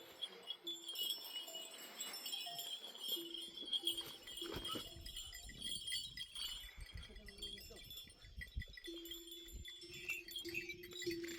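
Bells of a herd of sheep and goats clinking and ringing, with the animals' sounds mixed in.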